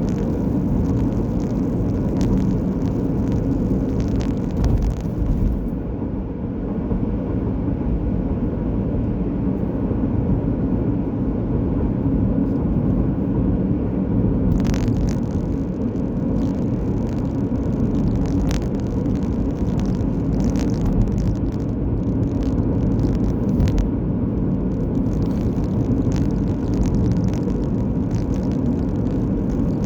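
Car being driven on the road: a steady low rumble of engine and tyre noise.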